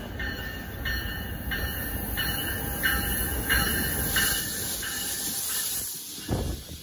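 New Jersey Transit multilevel commuter train, cab car leading and pushed by an electric locomotive, running into the station and past close by. Its rumble and wheel noise swell as the coaches go by, and a bright ring repeats about every two-thirds of a second.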